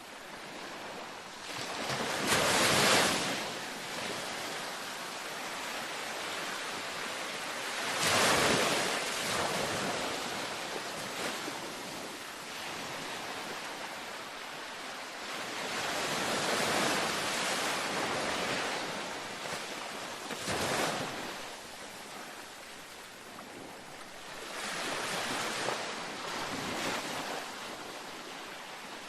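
Ocean waves breaking and washing up a beach: a wave surges every few seconds, the loudest about two and eight seconds in, over a steady hiss of surf.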